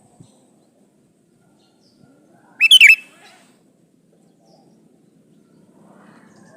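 Male sooty-headed bulbul giving one short burst of a few quick, loud chirping notes about two and a half seconds in.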